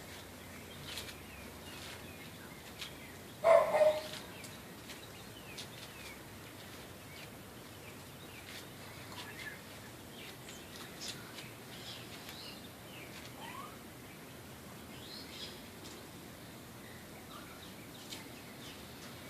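Wild birds chirping, with short high chirps and ticks scattered throughout. One much louder short burst comes about three and a half seconds in.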